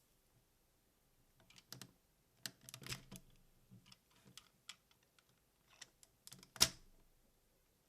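Hard plastic parts of a transforming combining robot toy clicking and tapping as they are handled and fitted together, with one sharp snap about six and a half seconds in.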